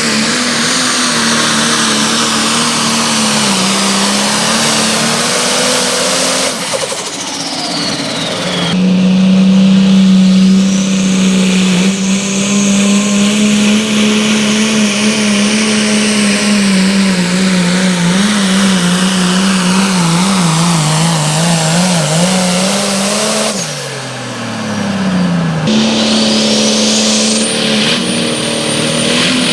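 Engine of a pulling vehicle running hard at high, steady revs. Its pitch falls away twice, about seven seconds in and again around twenty-four seconds in, and the sound changes abruptly soon after each drop.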